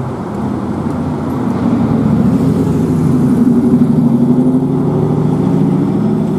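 A road vehicle's engine running close by in street traffic, growing louder over the first few seconds and then holding steady.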